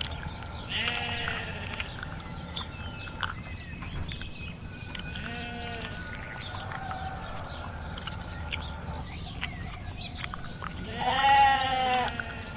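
Livestock bleating: two short, fainter bleats in the first half and a loud, longer bleat near the end, with scattered faint clicks between them.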